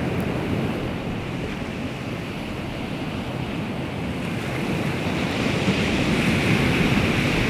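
Baltic Sea waves washing onto the shore, with wind. The surf swells louder about five seconds in.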